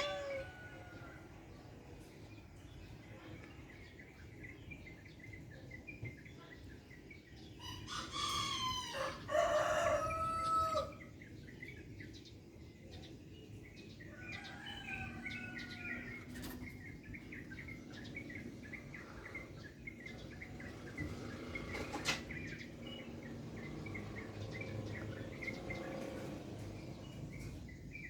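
A rooster crows once, loudly, about eight seconds in, over a low background. Through the second half there is a long run of quick, high chirping.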